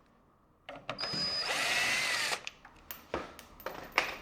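Kicx Tornado car subwoofer driven to destruction, giving out a harsh, distorted, drill-like buzz for about a second and a half, followed by a few sharp clicks as the signal cuts. The subwoofer burns out under this test.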